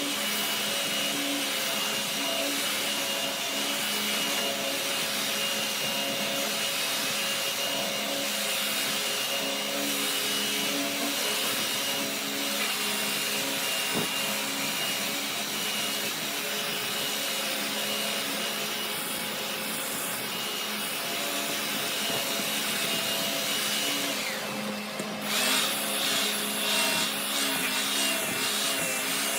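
Woodworking machinery running steadily: a constant high whine over a dense machine hum. Just before 25 seconds it switches to a different machine with a wavering tone.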